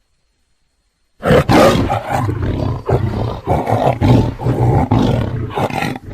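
Tiger roaring: after about a second of silence, a loud, choppy run of roars starts abruptly and goes on for about five seconds.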